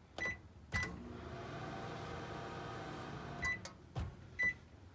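Microwave oven keypad beeps and a click, then the microwave runs with a steady hum for about two and a half seconds. The hum stops, followed by more beeps and clicks.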